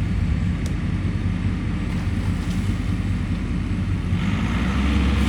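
Tractor engine labouring under load as it pushes against an ice-covered fallen tree limb. About four seconds in its pitch climbs and the sound grows louder, as the limb is on the point of breaking.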